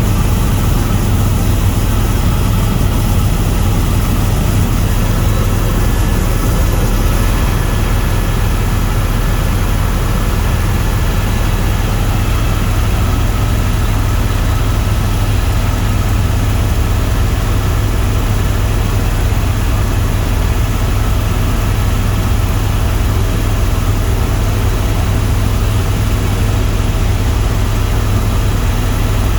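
Tour helicopter in flight: its engine and rotor running at a steady, loud drone, with an unchanging low hum and no change in pitch or level.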